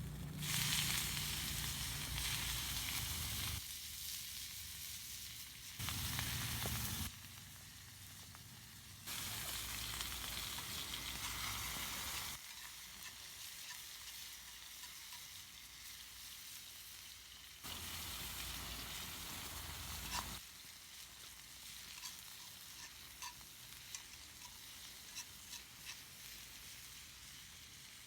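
Food frying and sizzling in a cast-iron skillet over a campfire, in several short shots that cut in and out abruptly. In the last part the sizzle is quieter, with scattered sharp pops.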